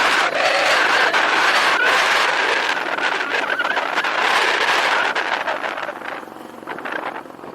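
Riding a motorcycle: loud rushing wind and road noise over the microphone, with the bike's running mixed in, easing off and getting quieter about five seconds in.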